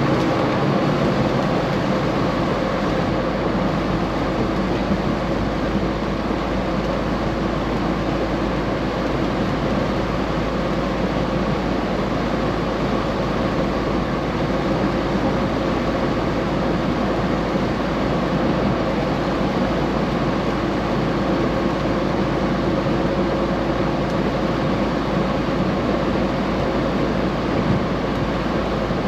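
A semi-truck running steadily: a constant engine and road drone with a few steady hum tones through it.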